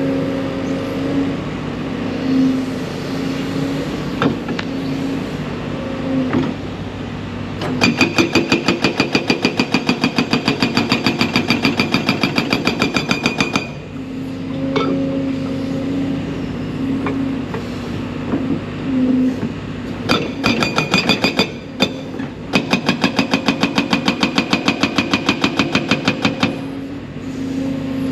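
Hydraulic breaker on a large excavator hammering rock in three runs of rapid, evenly spaced blows, several a second. Between the runs the excavator's diesel engine runs steadily.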